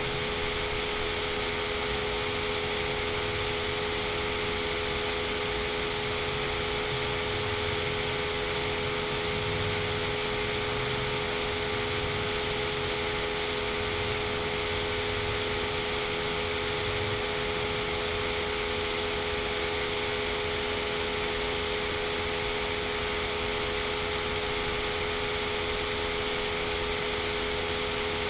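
Steady background hum and hiss with a constant tone, unchanging throughout; no speech.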